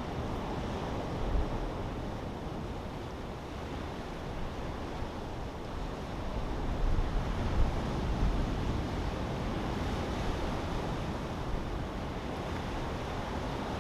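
Wind buffeting the microphone over a steady rushing noise, gusting louder about halfway through.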